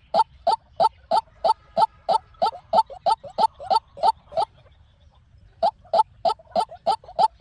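White-breasted waterhen calling: a fast run of short, croaking notes at about three a second. The run breaks off about four and a half seconds in and starts again a second later.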